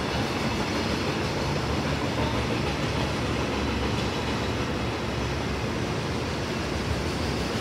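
A train running at the station, heard as a steady, even rumble and hiss with no distinct wheel beats.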